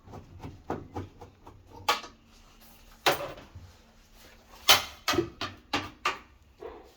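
Irregular knocks and clicks of tools and parts being handled, about a dozen spread over several seconds, the loudest near the middle, with a faint steady hum for about a second early on.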